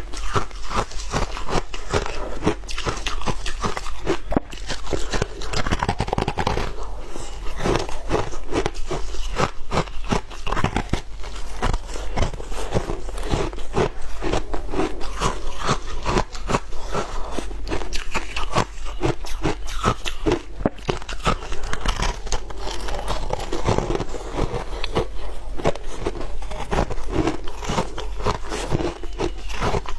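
A person biting and chewing shaved ice with dense, continuous crunching.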